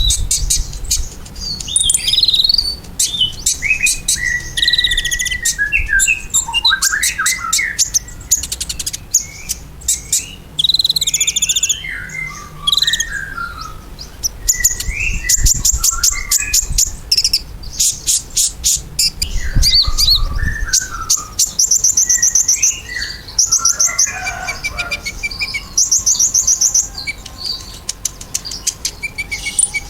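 Sunbird known in Indonesia as kolibri ninja singing in a lure recording: fast, high-pitched chirps and buzzy trills mixed with short warbling phrases, going on almost without a break.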